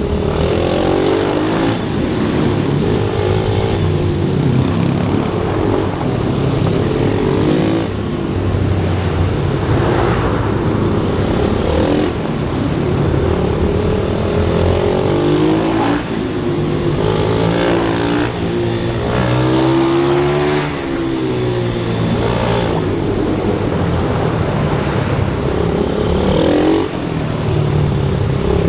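Pit bike engines running hard on a track, their pitch repeatedly climbing as they accelerate and dropping as they shift or brake, with more than one engine note overlapping at times.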